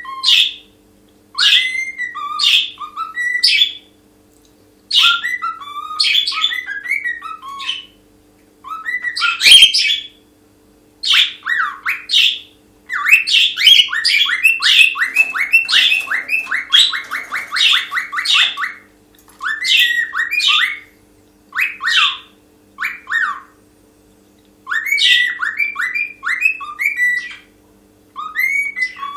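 Pet cockatiel singing: phrases of whistles and chirps with short pauses between them, and a long fast run of rapidly repeated notes in the middle. A single sharp tap sounds about a third of the way in.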